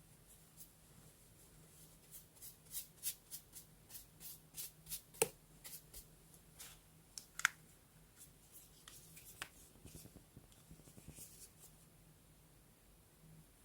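Paper and stationery being handled close up: an irregular run of small crisp ticks and rustles, busiest in the first half, with two louder clicks about five and seven seconds in.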